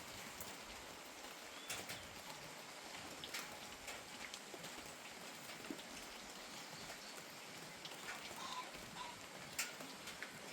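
Steady light rain falling, a soft even hiss with scattered individual drops tapping sharply on a nearby surface.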